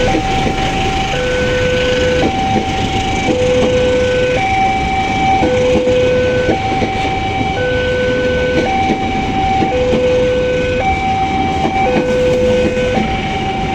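Railway level-crossing warning alarm sounding two tones in turn, a low tone and a higher tone, each held about a second, which signals that a train is approaching or passing. A steady rumbling noise runs underneath.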